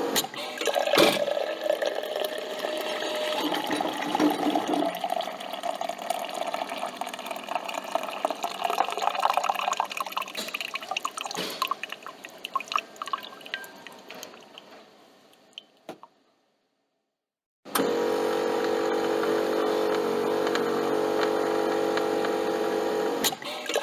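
Coffee machine: its steady hum cuts out with a click, and coffee trickles and drips into the cup, fading away over about fifteen seconds. After a short gap of silence the machine's steady hum starts again, with another click near the end.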